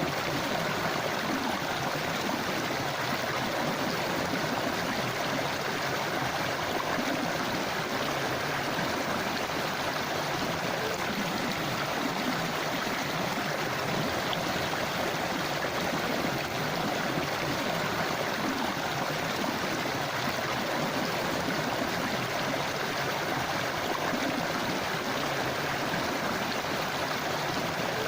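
Forest river or stream flowing steadily over rocks, a continuous rushing and babbling of water.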